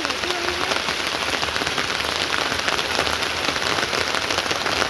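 Steady rain falling and pattering on surfaces, a dense patter of individual drops.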